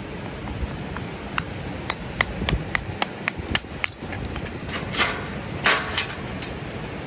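A run of sharp, irregular hammer-like taps with a short ring to each, followed by two or three brief scraping or rustling bursts, over a steady background hiss.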